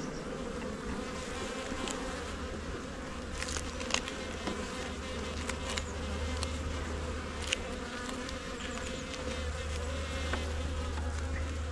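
Honey bees buzzing steadily in a mass over an open hive during a frame inspection, with a few faint clicks.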